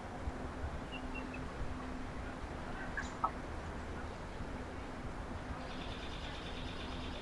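Small birds calling at a backyard feeder: a few short high chirps, then a rapid high trill near the end, over a steady low background hum.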